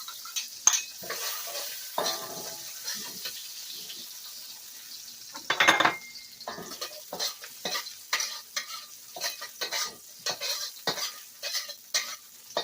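Sliced ginger and garlic sizzling in hot oil in a pan while a spatula stirs them, scraping and clicking against the pan, the clicks coming quicker from about halfway through.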